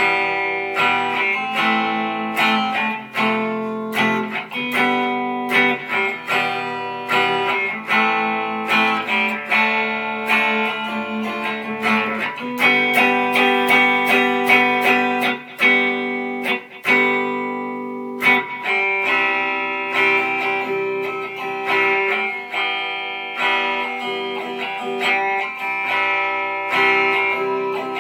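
Solo guitar playing a melody of plucked single notes and chords, with frequent picked attacks.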